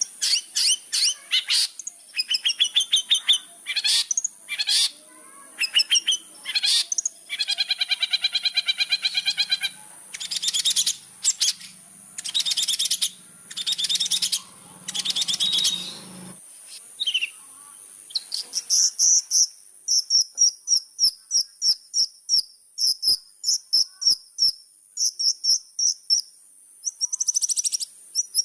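Long-tailed shrike (cendet) singing a fast, varied song: quick chirps and whistles, a harsh buzzing chatter in the middle, then a run of short high notes about two a second. A steady high-pitched hiss runs underneath.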